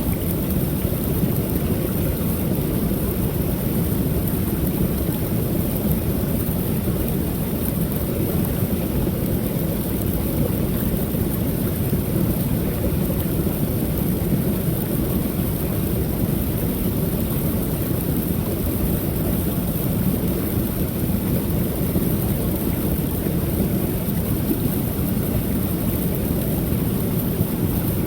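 Creek waterfall: water pouring steadily over the falls, an unbroken low rushing with no changes, and a faint steady high hiss above it.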